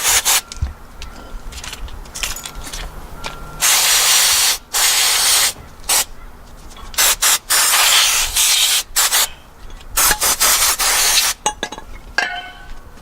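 Aerosol brake cleaner sprayed onto the brake bolts in a series of hissing bursts, each from a quarter second to about a second long, with short pauses between them, to clean and degrease them.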